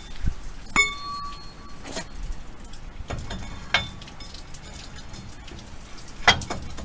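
Steel bars knocking and clinking against the metal of a recovery truck's spec lift, one strike just under a second in ringing on briefly, then several dull knocks.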